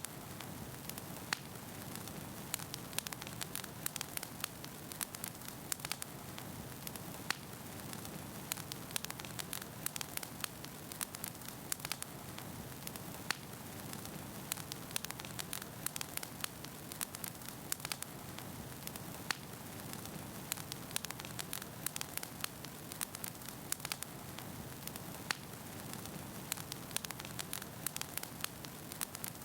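Wood fire burning in a fireplace: a steady low rush with many sharp, irregular crackles and pops from the burning logs, several each second.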